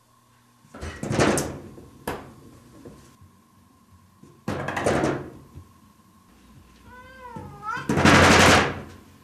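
A cat knocking on a door with its hind paw, the door rattling in three bouts of quick knocks, the last one the loudest. One short meow just before the last bout.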